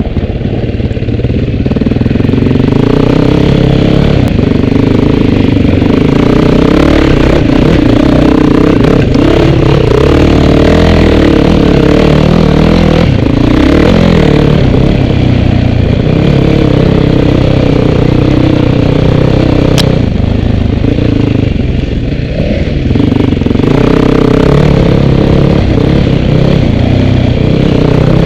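Off-road vehicle engine running loud, its pitch rising and falling as the throttle is worked over rough trail, with rattling and clatter from the machine and a sharp knock about twenty seconds in.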